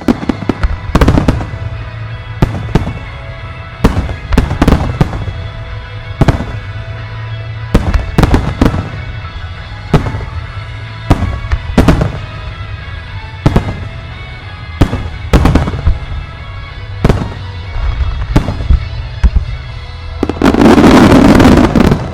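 Aerial fireworks shells bursting one after another in sharp bangs and booms. About twenty seconds in, a very loud dense barrage goes off for nearly two seconds.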